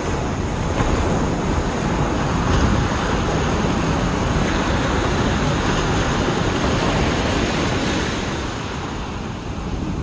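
Ocean waves breaking and washing up a beach, with wind buffeting the microphone as a low rumble. A surge swells about a second in and eases off near the end.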